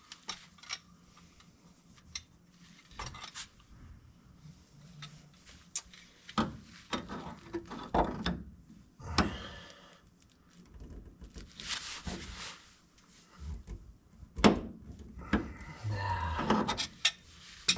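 Hand work on metal linkage parts: scattered clicks, knocks and scraping as a greased bushing is pushed and worked into the Vanagon's shift linkage.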